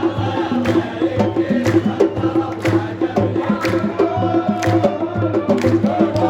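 Sports supporters chanting in unison over a steady drumbeat, with drum strikes about twice a second.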